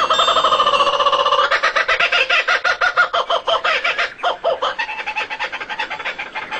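Common loon giving its tremolo call: a loud, rapid quavering run of pulses, with a brief break about four seconds in.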